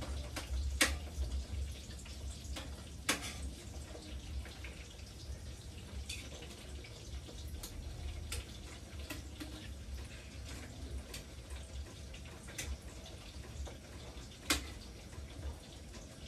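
Food frying in oil in a wok on a gas stove: a steady sizzle with crackles, and a metal spatula clicking and scraping against the wok now and then, sharpest about a second in, at three seconds and about fourteen seconds in. A low steady rumble runs underneath.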